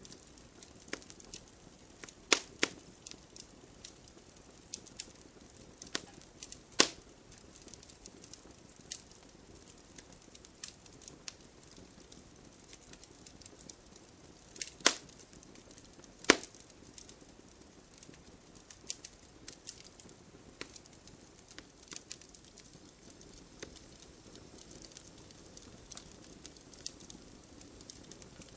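Wood fire crackling: a soft hiss of burning with irregular sharp pops and snaps, the loudest about two seconds in, about seven seconds in, and twice between fifteen and sixteen seconds in.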